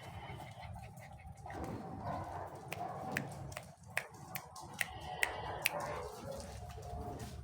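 Golden retriever puppies giving a string of short, high squeaks and yips, about eight of them close together in the middle stretch, over a low background murmur.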